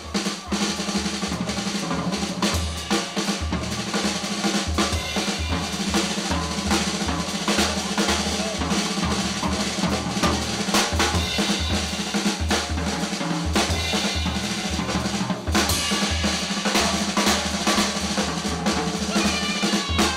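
Small jazz band playing, with the drum kit to the fore: busy snare and bass drum work, rolls and rimshots, over a stepping bass line.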